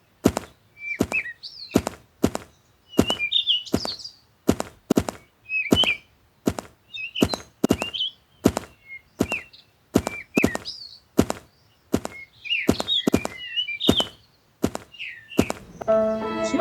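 A steady run of sharp knocks, about two a second, with birds chirping in between. Music with steady tones comes in near the end.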